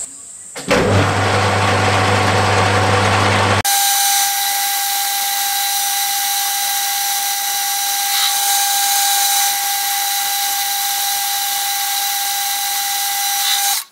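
Metal lathe running, turning the outer diameter of a cast iron flywheel. About a second in, a low hum starts; a few seconds later it changes abruptly to a steady high whine over a hiss, which stops just before the end.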